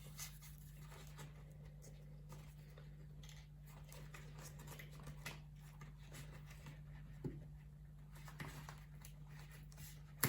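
Faint rustling and light taps of a folded juice-carton base being pushed into a frame of rolled paper straws, with a couple of sharper ticks, over a steady low hum.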